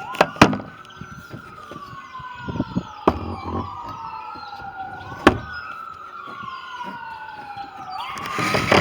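Ambulance siren wailing, its pitch sweeping slowly up and down about every two and a half seconds. A few sharp knocks sound over it, twice near the start and twice more later.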